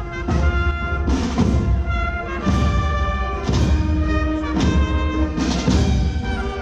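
A procession band playing a slow march: held brass notes over heavy drum beats about once a second.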